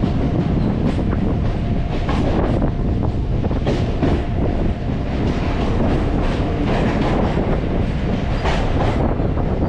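MMTS electric local train running between stations: a steady rumble with the wheels clacking over rail joints at uneven intervals.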